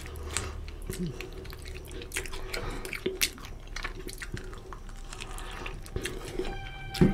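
Close-miked wet chewing, lip smacks and finger sucking of someone eating oily mutton curry and rice with his fingers, a quick patter of short clicks and smacks. Near the end, music comes in with steady held notes.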